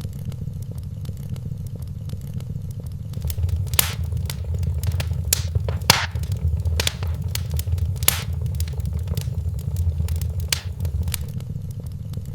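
Wood fire in a fireplace, a steady low rumble of flames under sharp crackles and pops that come thicker and louder through the middle of the stretch.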